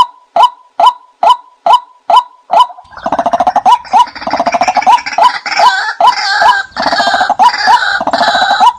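Bird calls: a short, rising call repeated evenly about twice a second, joined about three seconds in by harsher, denser calling that continues alongside it.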